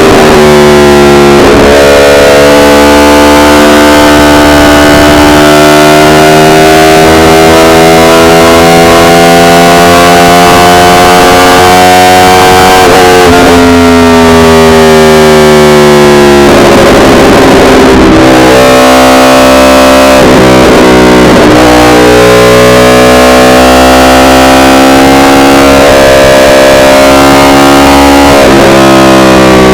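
Yamaha R1's inline-four engine running under way. Its pitch climbs slowly for long stretches, then falls sharply about 13 and 16 seconds in, and again twice later. The recording is heavily distorted from clipping.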